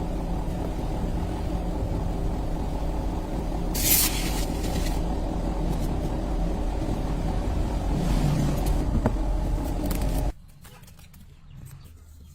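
Car engine running steadily with a low rumble and a brief hiss about four seconds in; the sound stops abruptly about ten seconds in.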